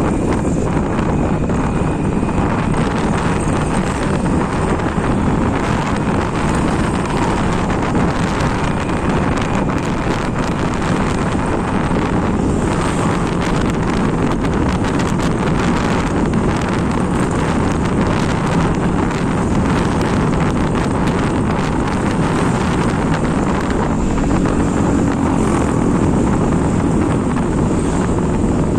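Steady rush of wind on the microphone over the road and engine noise of a moving vehicle.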